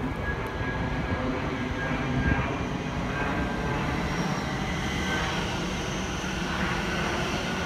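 Thameslink electric multiple-unit train running along the platform: a steady low rumble with a faint high whine over it.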